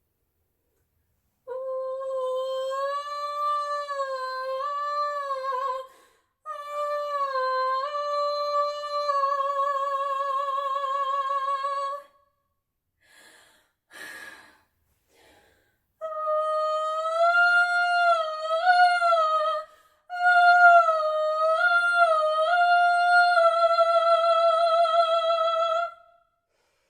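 A single high voice, unaccompanied, singing a slow wordless melody with vibrato in four long held phrases, with a short breath midway. The last two phrases sit a little higher in pitch than the first two.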